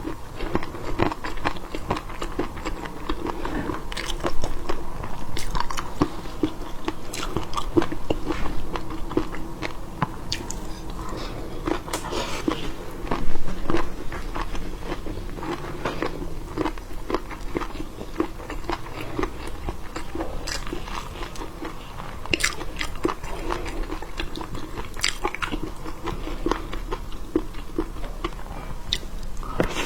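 Close-miked biting and chewing of seafood, with many sharp clicks throughout.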